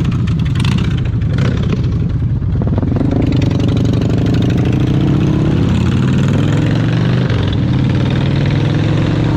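Motorcycle engine running while under way, its note steady with slight rises and falls in pitch.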